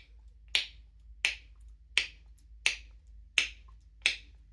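A series of six sharp clicks, evenly spaced about two-thirds of a second apart, over a faint low hum.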